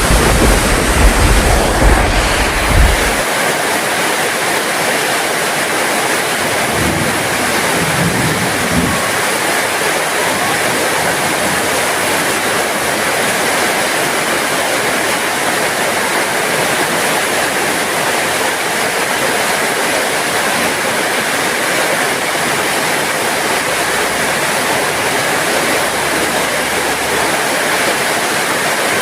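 Steady heavy rain falling, an even hiss. A low rumble in the first few seconds stops abruptly, and two brief low thuds come about seven and eight and a half seconds in.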